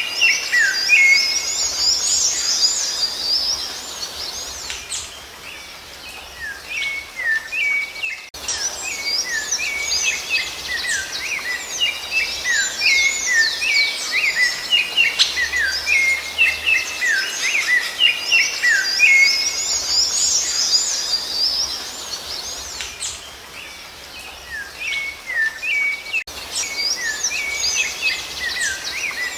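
Several songbirds singing together in a dense run of quick chirps, whistled down-slurs and warbles, thinning out twice for a few seconds.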